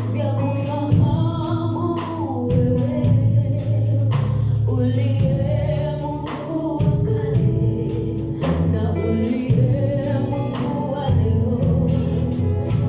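Gospel worship music played live: a sung melody over sustained low bass notes and regular drum and cymbal hits.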